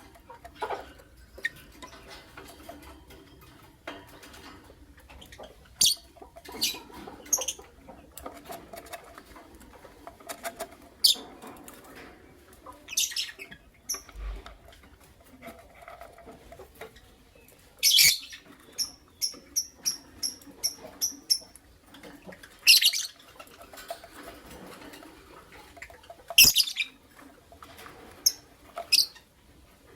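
Pet lovebirds chirping, with short scratchy bursts between the calls and a quick run of about eight high chirps a little past the middle.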